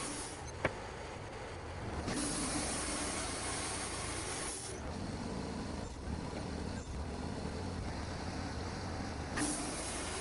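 Portable sawmill running steadily while milling Douglas fir, with a high hiss that starts and stops abruptly twice over its steady hum, and one sharp click just after the start.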